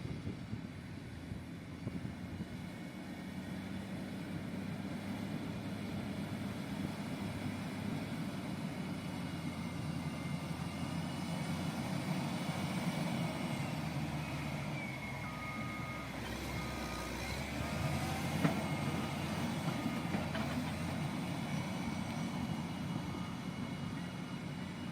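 Diesel engine of heavy construction machinery running steadily, with a reversing alarm beeping about once a second in the second half.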